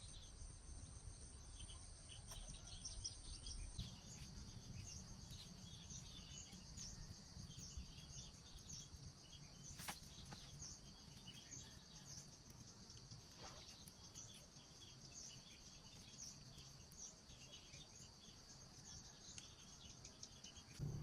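Faint forest ambience: a steady high-pitched insect drone, like crickets, with many short scattered chirps over it. A sharp click about ten seconds in.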